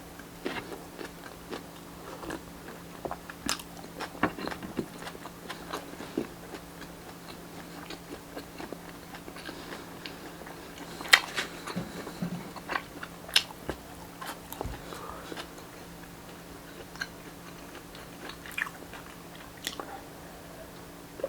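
Close-up chewing and biting of grilled street-food barbecue, with scattered crunchy clicks and wet mouth noises. The loudest bites come about halfway through, over a faint steady hum.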